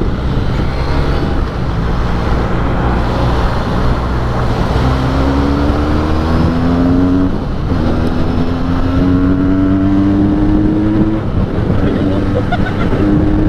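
Benelli 302S's 300 cc parallel-twin engine through its stock exhaust, accelerating through the gears: the engine note climbs, drops at a gear change about seven seconds in, climbs again and drops at another shift about eleven seconds in before climbing once more.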